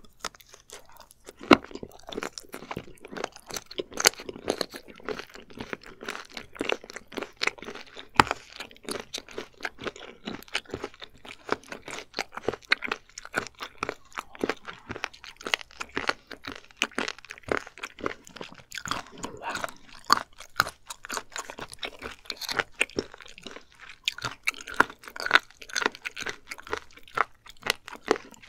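A person chewing firm raw abalone slices close to the microphone: a steady, irregular run of crunchy chewing clicks.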